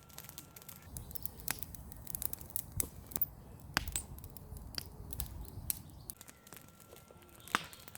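Campfire crackling, with irregular sharp pops and snaps and a low rumble underneath through most of the middle.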